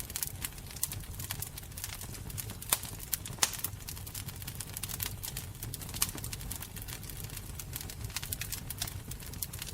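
Fire crackling: a fast, irregular stream of small pops over a steady low rumble, with a few louder pops about three seconds in and again about six seconds in.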